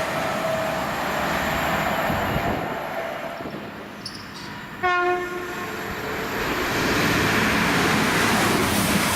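Train horn giving one short blast about five seconds in, between stretches of rushing rail noise: the rumble of a train fades at first, then a non-stopping train comes through the station at speed and grows loud toward the end.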